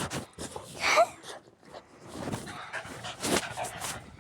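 A dog panting up close, with one short high whine rising in pitch about a second in.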